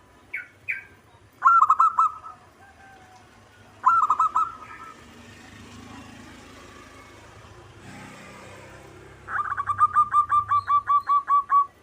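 Zebra dove (perkutut) cooing. There are two short notes near the start and two brief rippling phrases, then near the end a long run of about fourteen quick, even, staccato coos.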